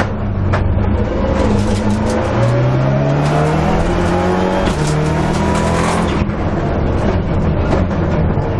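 Rally car's engine heard from inside the cockpit, accelerating hard through the gears: the pitch climbs, drops back at two upshifts and climbs again, then steadies about six seconds in. Road and cabin noise with scattered clicks and knocks runs underneath.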